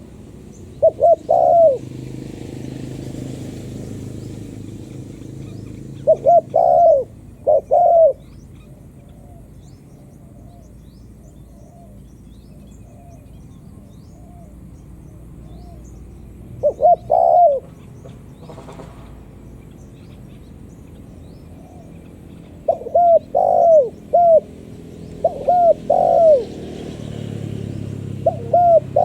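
Spotted dove cooing: repeated short phrases of a few coos each, coming every several seconds, with fainter coos in the gaps between them.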